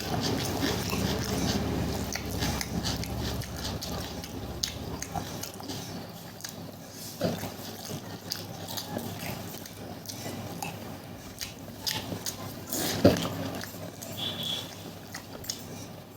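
Close-up eating sounds: wet chewing and lip smacking with many small crisp clicks and crunches, and one louder sharp crunch about 13 seconds in.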